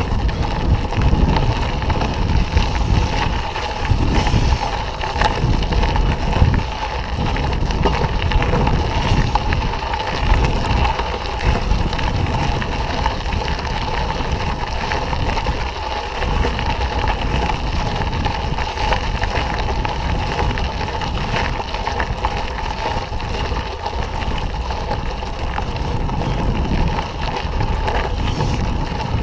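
Wind buffeting the microphone over the rumble and rattle of a mountain bike riding along a dirt trail, steady throughout.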